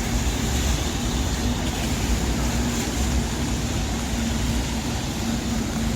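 Steady city street noise: traffic rumble and a hiss of tyres and rain on wet pavement, with a faint steady hum.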